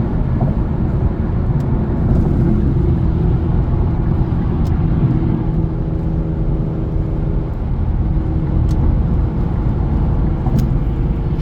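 A car running, with a steady low rumble of engine and road noise and a faint engine drone.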